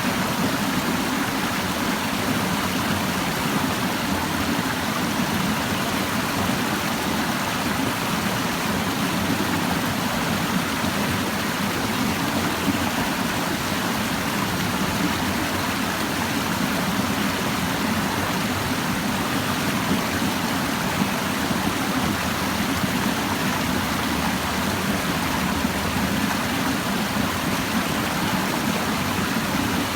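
Clear mountain stream babbling over rocks: a steady, even rush of running water with no breaks.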